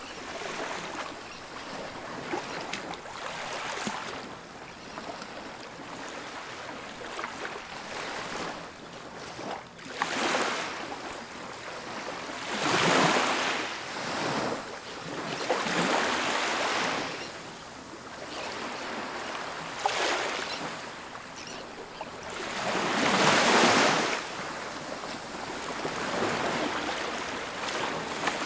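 Ocean surf breaking on a beach: waves rush in and wash back in surges every few seconds, with two louder breakers, one a little before halfway through and one about three-quarters of the way through.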